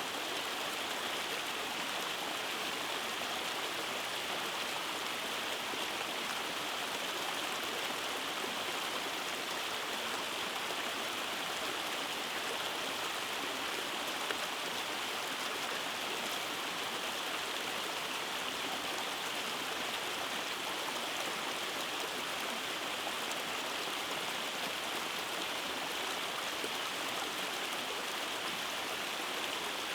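Rainforest stream tumbling over small cascades: a steady rushing of flowing water.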